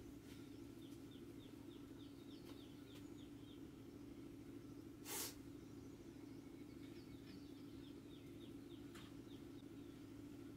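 Faint, quiet ambience: a small bird twittering in quick runs of short, high, falling chirps, twice, over a steady low hum. About five seconds in comes one short, sharp burst of noise, the loudest sound.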